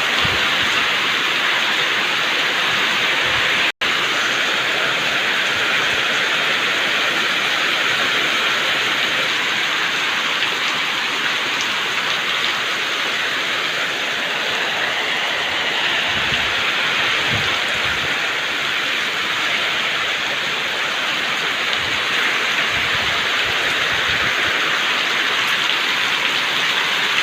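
Heavy rain pouring steadily in a downpour, with a few brief low thumps in the second half.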